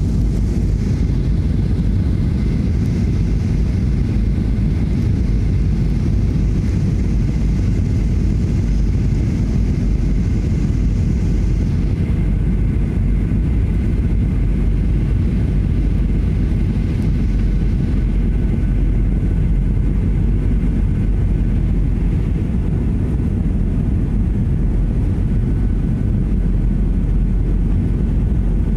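Steady jet airliner cabin noise: a loud, even rumble of engines and airflow, with a faint steady whine. A higher hiss drops away about twelve seconds in.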